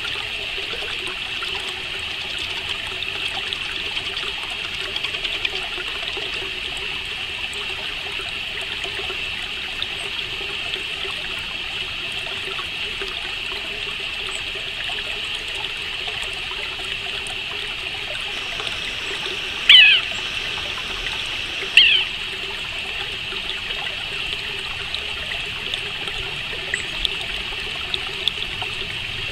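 Steady, continuous chirring of crickets. Two loud, short bird calls, each sweeping downward in pitch, come about two seconds apart roughly two-thirds of the way through.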